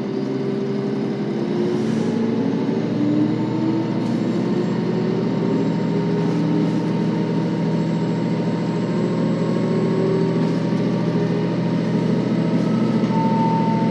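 KiHa 40 series diesel railcar running: a steady low engine drone with several pitched tones that slowly rise over the seconds as the railcar gathers speed.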